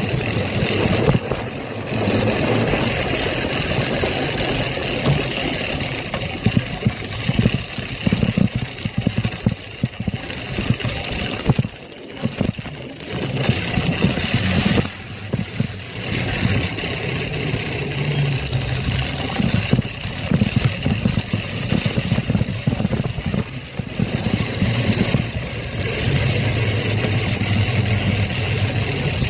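A motorbike engine running, its revs and level rising and falling unevenly, with a brief drop about twelve seconds in.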